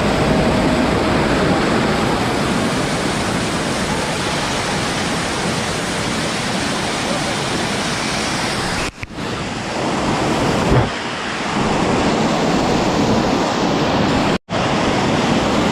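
Loud, steady rush of waterfall water close to the microphone. The sound drops out for a moment twice, about nine seconds in and near the end.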